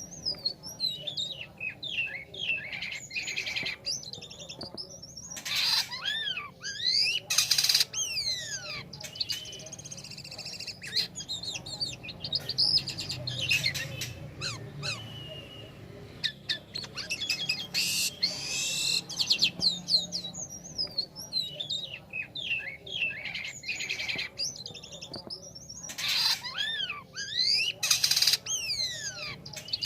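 Jalak kapas starling singing: a busy run of quick chirps and sliding whistled notes, broken several times by short harsh rasping notes, which are the loudest sounds.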